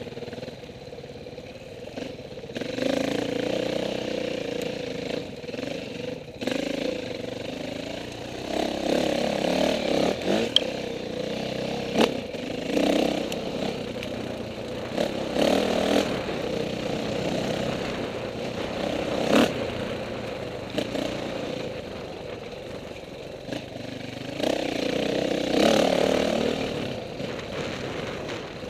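KTM 450 dirt bike's single-cylinder four-stroke engine, revved up and eased off again and again, with a few sharp knocks and some clatter along the way.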